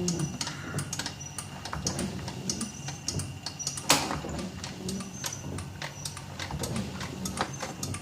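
Rebuilt windshield washer pump on a 1967 Chevy G10 van running on test: a steady motor hum with rapid, irregular clicking, and one sharper click about four seconds in.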